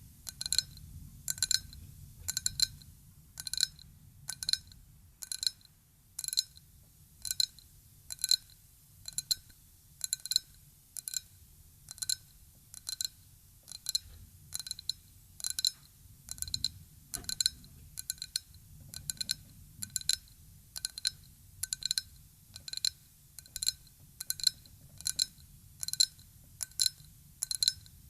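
Ryukyu glass tapped lightly in a steady rhythm, about two taps a second, each tap giving a short, clear glassy ring.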